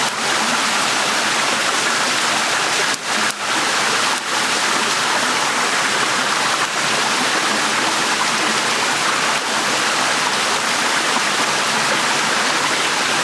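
Small shallow stream running steadily over rocks, a dense even rush of water with three brief dips about three to four seconds in.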